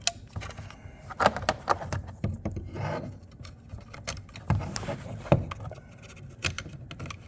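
Irregular plastic clicks, taps and rubbing of hands working a new power window switch assembly and its door trim.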